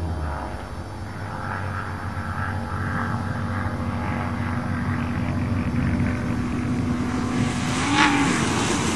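A 1992 Ford Taurus wagon and a 1996 Dodge Caravan racing flat out side by side, their engines a steady drone that wavers about eight seconds in.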